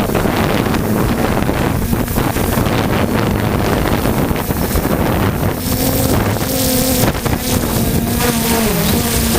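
Strong wind buffeting the microphone, with the hum of a 3DR Solo quadcopter's propellers underneath, coming and going and wavering in pitch.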